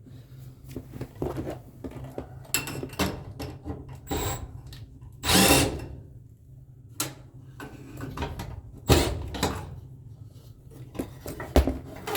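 Several short bursts of a cordless power driver, each about half a second, the loudest about five seconds in and another about nine seconds in, among clicks and knocks of handling tools and metal.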